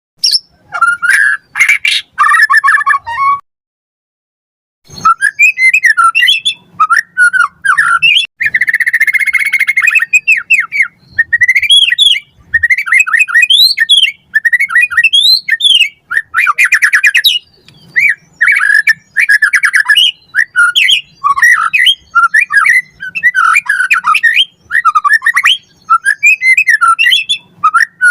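White-rumped shama (murai batu) singing a loud, fast, varied song of whistles, trills and harsher notes in quick rising and falling phrases, with a pause of about a second between three and five seconds in.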